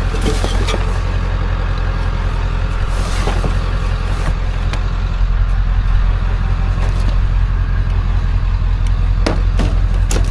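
A vehicle engine running with a steady low rumble, with a few light clicks and knocks, two of them near the end.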